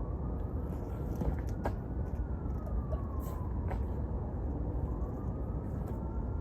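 An emergency-vehicle siren wailing, its pitch rising and falling slowly about once every four seconds, over a steady low rumble, with a few sharp clicks.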